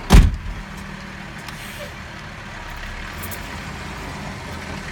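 A sharp loud thump right at the start, then a garbage truck's diesel engine idling steadily.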